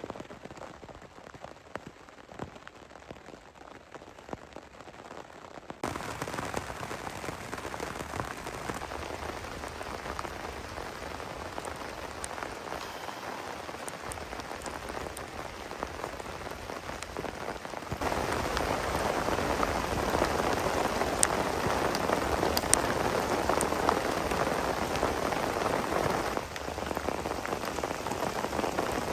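Heavy rain falling, an even hiss of drops with a few sharper drip ticks, growing louder in sudden steps about six seconds in and again about eighteen seconds in.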